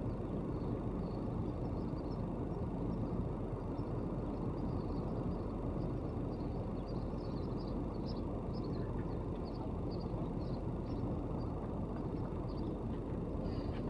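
Steady low outdoor background rumble, with faint short high chirps scattered through it.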